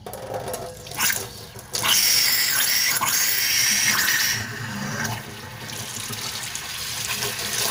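Tap water running into a stainless steel sink. It starts after a few knocks about two seconds in, and its splash changes about four and a half seconds in as the stream is broken up.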